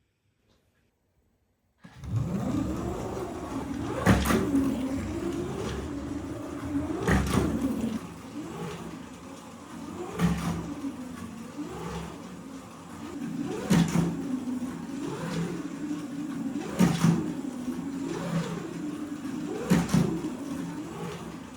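Scalextric monster truck slot car running laps, its small electric motor whining and rising and falling in pitch, with a sharp clatter about every three seconds as the truck lands off a ramp. The sound starts about two seconds in, after near silence.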